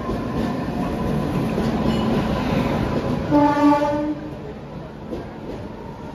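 Electric-hauled express train of LHB coaches rolling past a platform, its wheels on the rails making a steady rumble and clatter. A short train horn blast sounds about three seconds in.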